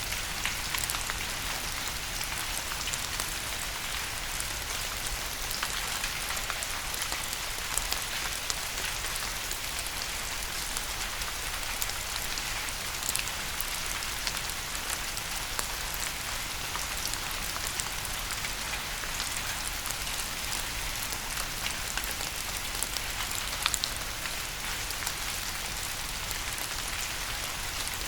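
Steady rain falling on a hard surface, a dense even hiss with many individual drop ticks scattered through it.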